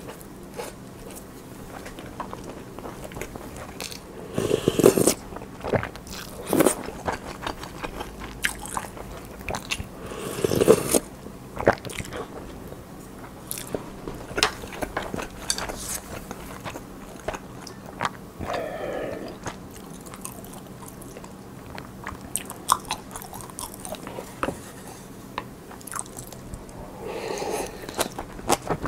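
Close-miked eating sounds: a person chewing and crunching food, with many small mouth clicks and a few louder moments about five and eleven seconds in.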